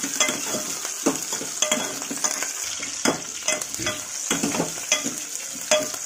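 Onions and green chillies sizzling steadily in hot oil in a metal pot while a metal ladle stirs them, scraping and knocking against the pot at irregular intervals. This is the seasoning for majjiga charu being fried through.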